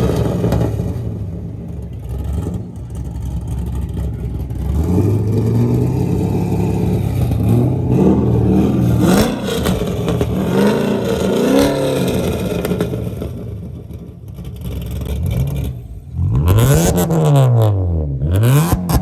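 Car engine revving over and over, its pitch climbing and dropping, with a quick run of rev blips near the end.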